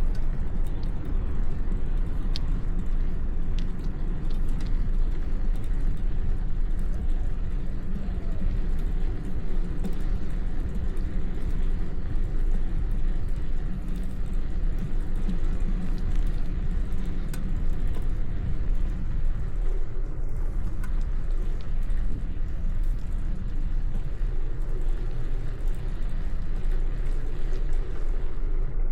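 Steady low wind rumble on the microphone of a moving bicycle, with road traffic going by and a few light clicks and rattles.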